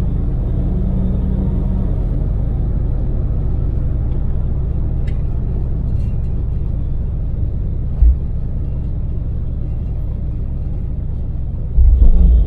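Daewoo Damas microvan running at speed, its LPG engine and road noise making a steady low rumble. A short low thump comes about eight seconds in and a longer one near the end.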